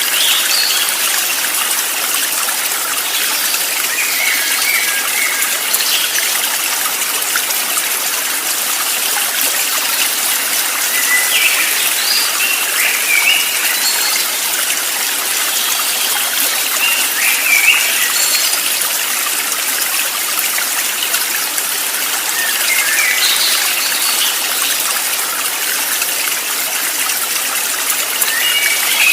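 Steady rushing of a flowing stream, with short high bird chirps every few seconds.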